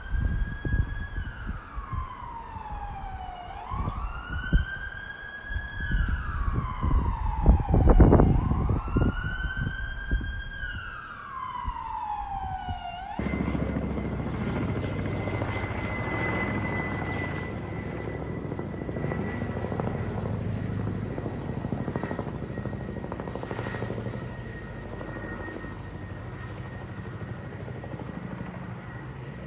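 An emergency vehicle's siren wailing in slow rises and falls, each lasting about four seconds, over loud low thumping. About 13 seconds in it cuts off abruptly to a steady rumbling noise with a faint steady high whistle.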